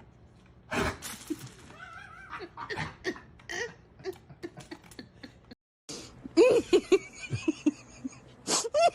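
Laughter in short, quick repeated bursts, breaking off briefly a little past the middle and then coming back louder.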